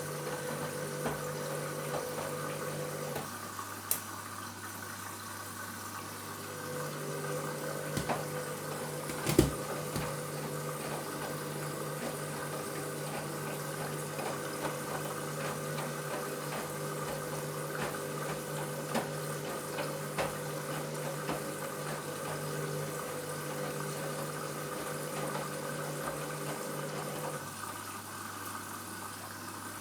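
Washing machine running its cycle with water sounds and a steady motor hum. The hum drops to a lower pitch about 3 s in, returns about 7 s in, and drops again near the end. A few sharp clicks or knocks come through, the loudest about 9 s in.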